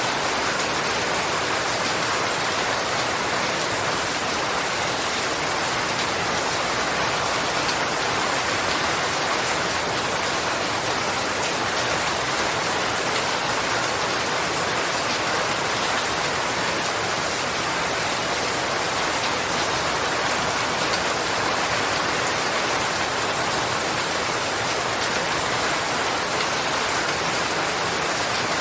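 Steady, heavy rain falling, an even hiss of many drops without change.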